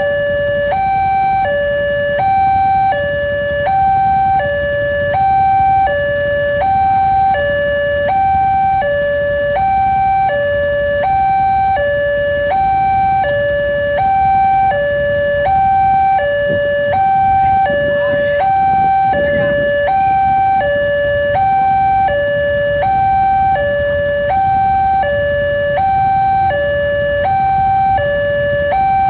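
Level-crossing warning alarm sounding a steady two-tone 'ding-dong', a higher and a lower tone swapping about every two thirds of a second, signalling that a train is approaching.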